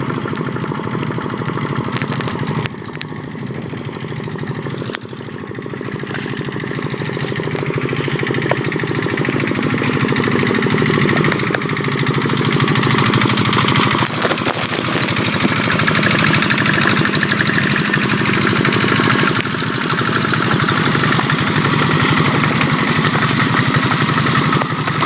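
Rice-paddy tractor engine running steadily, growing louder from about five seconds in.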